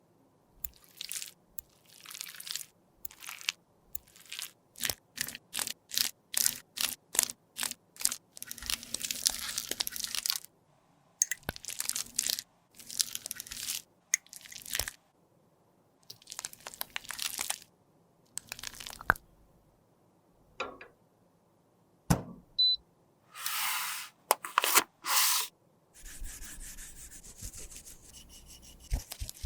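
A series of short scraping and crunching strokes as makeup product is worked by hand with a tool, some in quick runs of about three a second, others drawn out longer.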